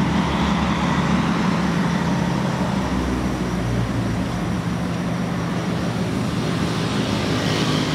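Subaru WRX STI sedan's turbocharged flat-four engine running with a steady low rumble as the car rolls slowly at low speed.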